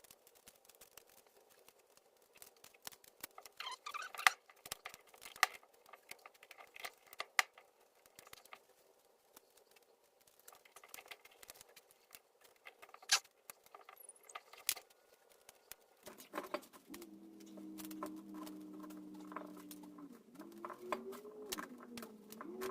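Scattered sharp clicks and taps of small hard parts being handled, followed about 16 seconds in by a steady pitched hum that wavers in pitch near the end.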